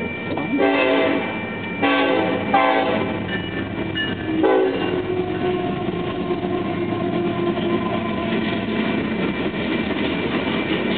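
Southern Pacific diesel freight locomotive sounding its horn in several blasts in the first five seconds, the grade-crossing warning, the first blast the longest. Then the train rolls past with a steady rumble of wheels on rail.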